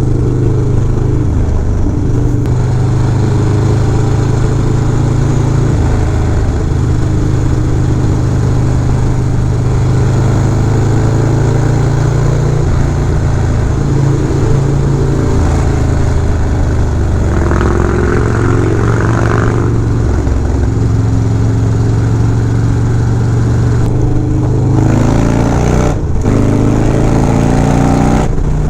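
Harley-Davidson Dyna Low Rider S V-twin motorcycle running under way through an aftermarket Fab 28 exhaust, its note rising and falling with the throttle. Near the end the revs climb in several rising sweeps as it accelerates through the gears.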